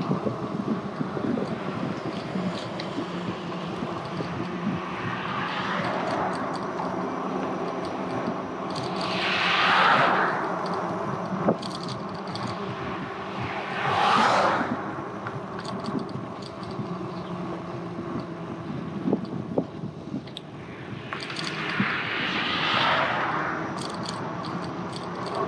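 Road traffic heard from a moving e-bike: four vehicles swell up and fade away as they pass, the loudest about ten seconds in, over a steady hum.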